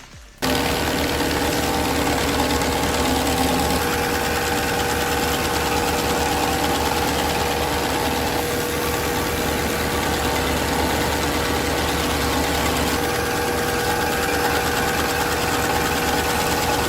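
Diesel engine of a compact track loader running steadily with a constant high whine over it, driving a stump grinder attachment through its hydraulics. It starts abruptly about half a second in and cuts off shortly before the end.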